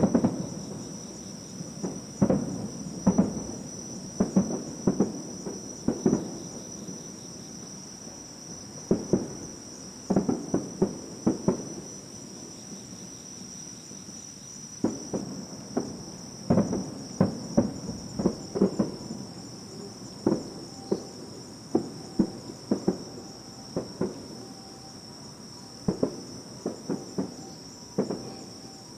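Aerial fireworks shells bursting in the distance: a long, irregular series of booms, some coming in quick clusters of two or three. A steady high-pitched insect trill runs underneath.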